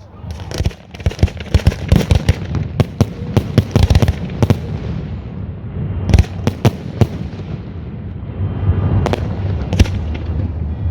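Aerial fireworks going off in a display: a rapid flurry of sharp bangs and cracks for the first four seconds or so, then single booms spaced a second or two apart, over a steady low rumble.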